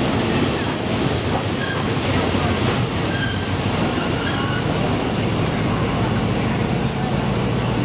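Passenger train running on the rails, a steady rumble with many short, high-pitched wheel squeals.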